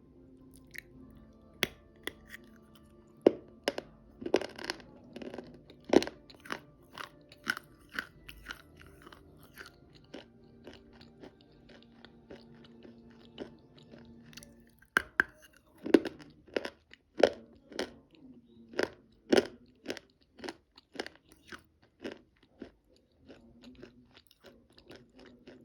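Chalk being bitten and chewed close to the microphone: sharp, irregular crunches, loudest in clusters about four to six seconds in and again from about fifteen to twenty seconds in. A faint steady low hum runs beneath.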